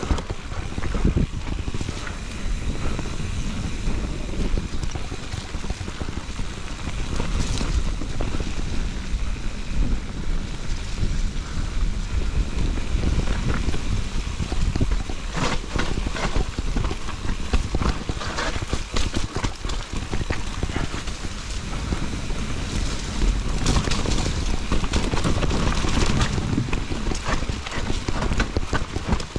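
Mountain bike riding a rough enduro trail: wind rumbling on the action camera's microphone, with tyres running over dirt and roots and frequent short knocks and rattles from the bike over bumps.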